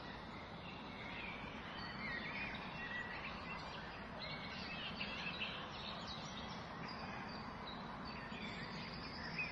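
Outdoor field ambience: a steady background hiss with small birds chirping and twittering throughout.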